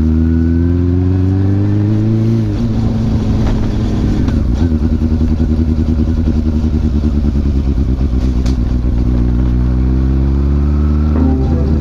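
Honda CB400SF inline-four motorcycle engine through a WR'S slip-on muffler, revs climbing under acceleration for about two and a half seconds, then dropping suddenly at an upshift and running steadily at road speed. Near the end the revs climb again and drop at another gear change.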